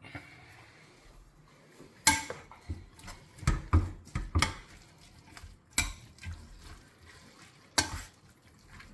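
Slotted metal spoon knocking and scraping against an enamelled steel pot while mixing chopped raw vegetables, beans and olives: irregular clinks, the sharpest about two seconds in, around three and a half to four seconds, and near the end.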